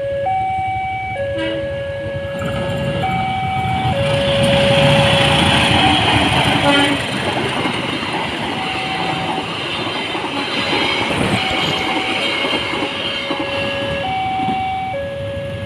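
Level-crossing warning alarm sounding a steady two-tone alternation, a low tone and a higher one each held for a second or two. A passenger train's coaches rush past over it, loudest about four to seven seconds in and easing off near the end.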